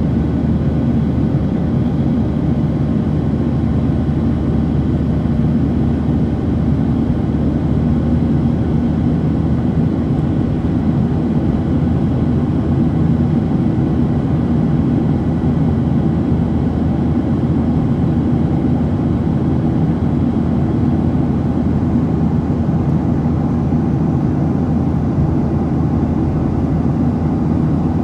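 Steady cabin drone of a Boeing 737-700 climbing after takeoff: its CFM56-7B turbofan engines and the rush of air, a deep even rumble with faint steady whining tones above it.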